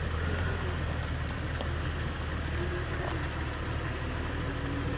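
Off-road 4x4's engine running steadily with a low, even drone, with one brief click about a second and a half in.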